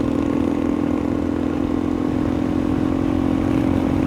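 Suzuki DR-Z400E single-cylinder dirt bike engine running at a steady cruise, a constant engine note over rushing wind and road rumble.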